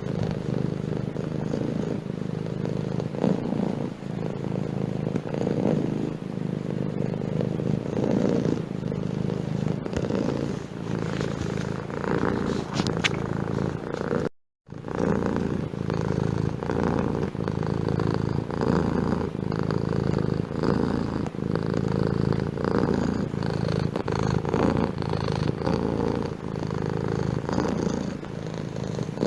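Domestic cat purring close up, a steady continuous purr with its regular pulsing rhythm. It breaks off for a split second about halfway through, then carries on.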